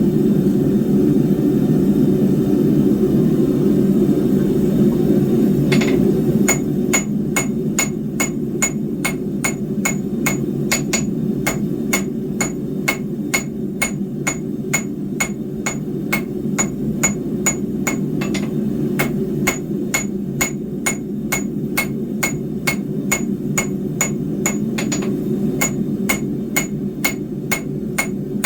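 Hand hammer striking a hot 3/8-inch square steel bar on an anvil in steady repeated blows, about two to three a second, starting about six seconds in with a couple of short pauses. A steady low rumble of the forge runs underneath.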